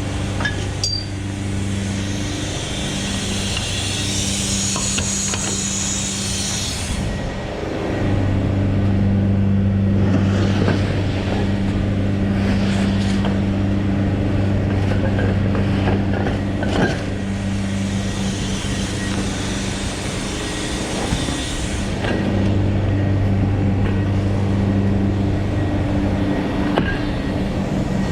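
Scania V8 truck engine running steadily with a deep, even hum that gets fuller about eight seconds in and again near the end, with a hiss over it for the first several seconds.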